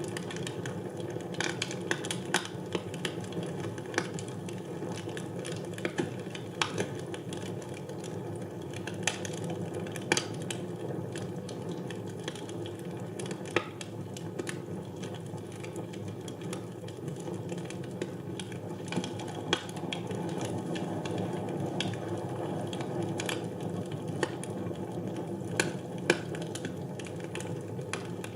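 Wood fire burning in a fireplace: a steady low rush of flames with frequent irregular crackles and sharp pops.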